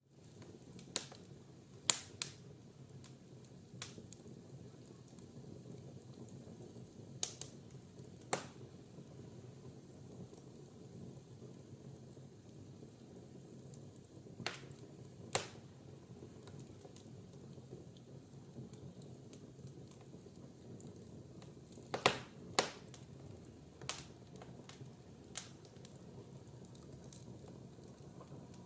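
Wood fire burning in a fireplace: a low, steady hiss of the flames with about a dozen sharp, irregular crackles and pops.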